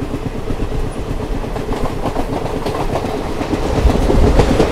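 Passenger train's ICF coaches running at speed, heard from an open coach doorway: a steady rumble with wheels clattering over the rails. It grows louder near the end.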